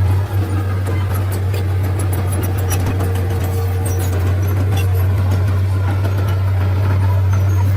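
Komatsu D31-P bulldozer's diesel engine running at a steady, even speed, a deep constant hum with faint scattered clinks over it.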